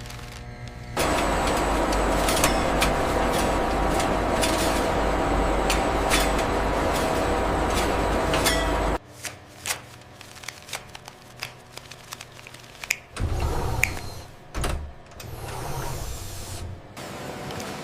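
Factory machinery running with a steady hum and rush for about eight seconds, then cutting off suddenly, leaving scattered clicks and knocks.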